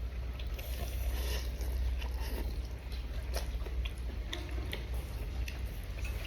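A person chewing a mouthful of bún riêu noodle soup close to the microphone, with scattered small clicks, over a low steady hum.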